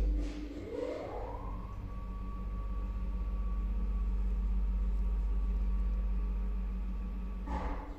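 1985 MLZ lift's AS2-72 electric hoist motor starting with a sudden clunk, its whine rising over about a second and then holding steady over a deep hum as the car travels; it stops with a clunk near the end.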